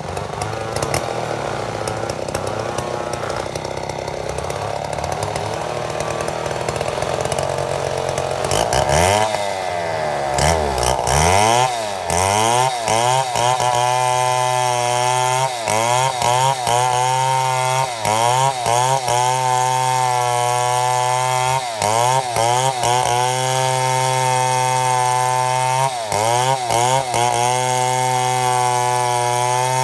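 Chainsaw running hard in a lengthwise milling cut through a mahogany log. The engine note holds steady at first, then from about nine seconds in it sags and recovers several times, and after that it keeps making short dips roughly once a second as the chain bites under load.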